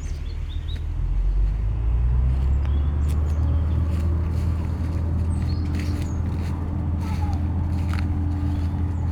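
Steady low engine rumble, like a motor vehicle running, with a few short bird chirps above it.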